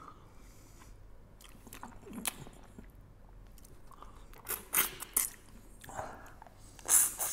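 A man biting and chewing food close to the microphone: soft mouth noises with scattered sharp clicks, louder in a cluster about four and a half to five seconds in and again near the end.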